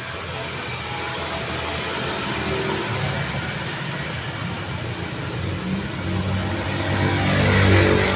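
Road traffic noise with engine hum building, as a motor vehicle passes close and loudest near the end.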